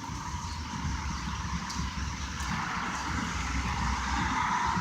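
Heavy rain falling: a steady hiss that swells louder in the second half.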